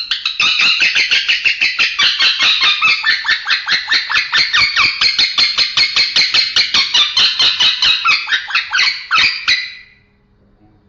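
Male lovebird chattering in one long unbroken run of rapid, harsh repeated notes, cutting off near the end. It is the irregular, unclear call that keepers call suara aneh or kongslet.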